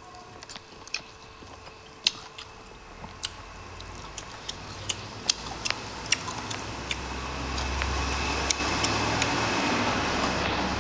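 Close-miked eating sounds: wet mouth clicks and smacks of chewing soft rice and vegetables, a few each second and unevenly spaced. A low steady rumble grows louder from about halfway in.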